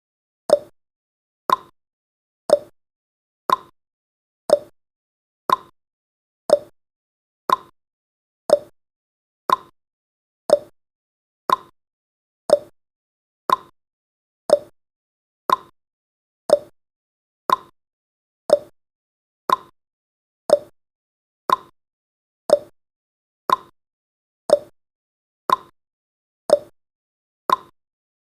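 Clock-ticking sound effect of a countdown timer: one short, sharp tick each second, evenly spaced.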